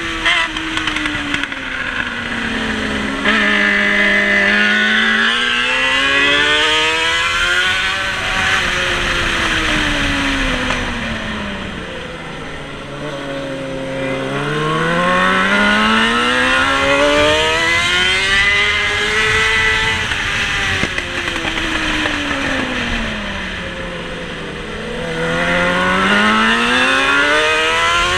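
Racing motorcycle engine heard from onboard at race pace. Its pitch climbs as the bike accelerates, then falls away three times as it slows for corners.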